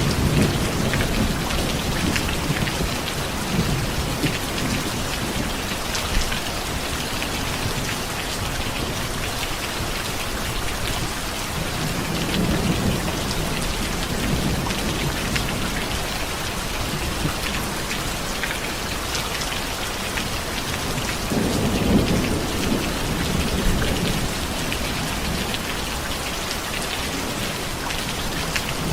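Steady heavy rain, a dense hiss of drops falling on surfaces, with low rolls of distant thunder swelling up at the start, about twelve seconds in and again about twenty-two seconds in.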